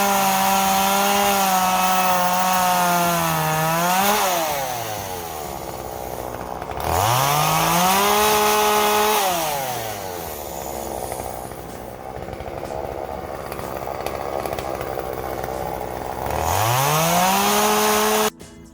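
Two-stroke chainsaw running at full throttle, dropping to idle about four seconds in, then revved up and let back to idle twice more. It cuts off suddenly near the end.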